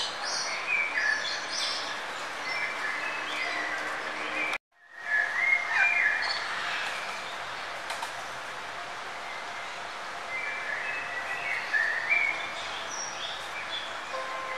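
Small birds chirping and calling in short, quick phrases over a steady background hiss. The sound cuts out completely for a moment about four and a half seconds in, then picks up again.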